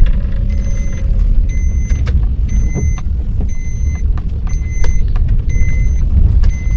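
Car cabin with a steady low engine and road rumble, and a short electronic warning beep repeating about once a second.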